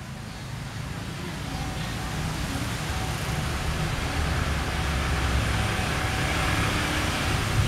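Train approaching, its rumble and rail noise growing steadily louder.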